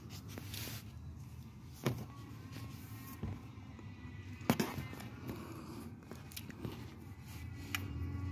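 Hand work on the transmission as the neutral switch sensor is worked loose: a few sharp clicks and knocks, two of them standing out, over a low steady rumble.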